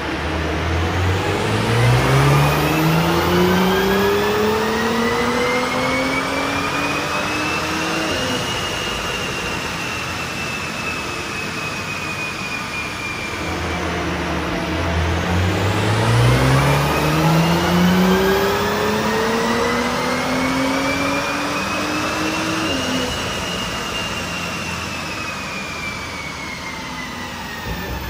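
Audi S4's turbocharged 3.0-litre V6, on a stage 1 E85 tune, making two wide-open-throttle pulls on a Mustang chassis dyno. Each time the engine note climbs steadily for about eight seconds, then the throttle is lifted and the revs drop off while a falling whine follows as the rollers spin down; the second pull starts about halfway through.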